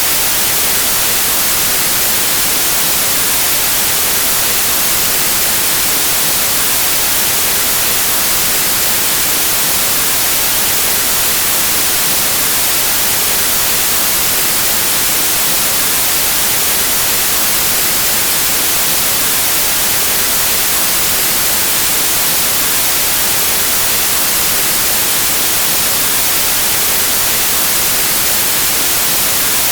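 Pure white noise: a steady, even hiss of static that stays unchanged, strongest in the high, hissy range.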